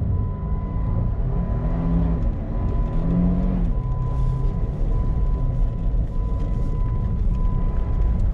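Dodge Nitro V6 engine heard from inside the cabin as it drives, revving up and back down twice early on, then holding a steady run, with engine oil fed to it as fuel. A thin steady high tone sounds alongside the engine.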